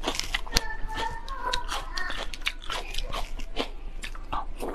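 Close-miked mouth sounds of biting into and chewing soft, sauce-glazed braised food, with many quick sticky smacks and clicks.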